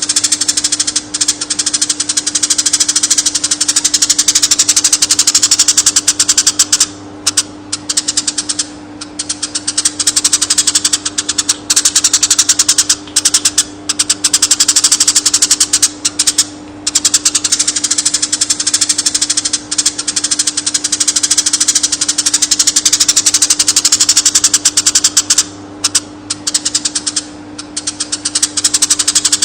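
Recorded song of a konin, a small songbird: a fast, unbroken stream of high chattering chirps and trills, with a few brief pauses. A steady low hum runs underneath.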